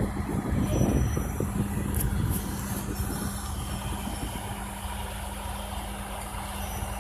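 Tractor engine running, with a heavier, rougher rumble for the first couple of seconds that then settles into a steady hum.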